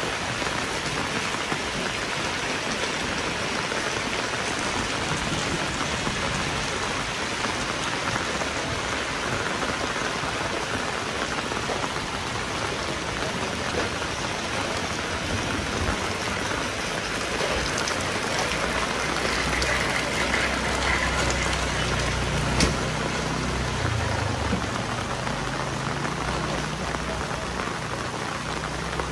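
Heavy rain falling steadily. A low rumble joins about halfway through and fades near the end, and there is a single sharp tick shortly after the rumble begins to peak.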